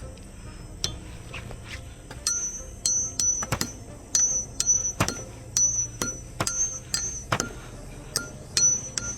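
Hard objects clinking over and over, each clink ringing briefly at a high pitch. The clinks start about two seconds in and come roughly two a second, with a few louder knocks among them.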